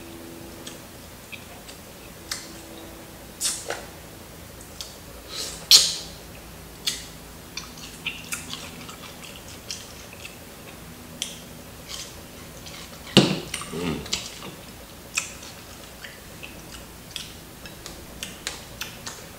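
Close-up eating sounds: crispy fried chicken being chewed, with scattered crunches and wet mouth clicks and smacks, the loudest about six and thirteen seconds in.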